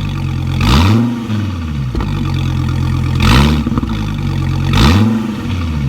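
2017 Dodge Viper's 8.4-litre V10 idling through its exhaust, blipped three times with short revs that rise and fall back to idle. The revs are kept low because the new engine is still being broken in.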